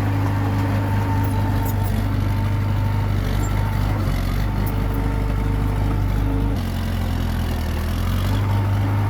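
Komatsu D21P bulldozer's diesel engine running steadily, its note changing about four seconds in and again at about six and a half seconds.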